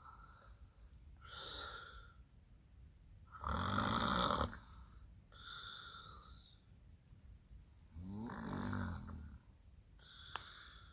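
A man snoring in his sleep: four separate snores about two seconds apart, the loudest about four seconds in. A short sharp click comes near the end.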